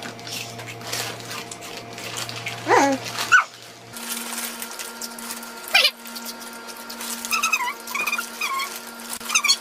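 Crunchy Flamin' Hot Cheetos being chewed, then short, high, wavering whining squeaks in the last few seconds.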